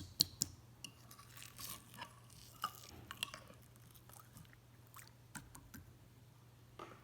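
Marbled slime being handled: scattered small clicks, pops and soft squishes, with a low steady hum underneath.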